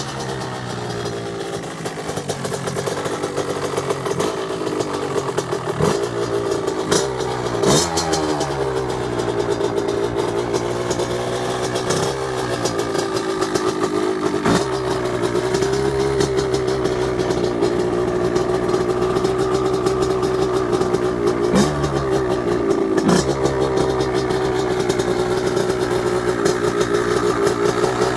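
KTM 65 SX's small two-stroke single-cylinder engine idling as it warms up after a cold start, its pitch briefly jumping and settling several times.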